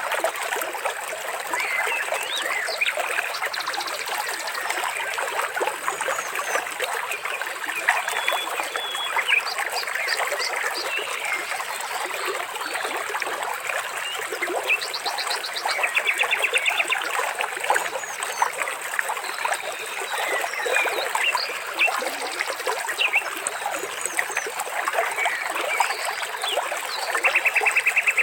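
Water trickling and splashing steadily, with scattered bird chirps over it. Several times a short, rapid buzzing trill cuts in, once about four seconds in, twice around the middle and once near the end.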